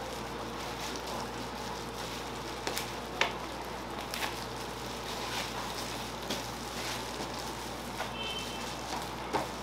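Food sizzling in a hot pan, a steady frying hiss broken by a few sharp clicks and taps of utensils. A short high beep sounds about eight seconds in.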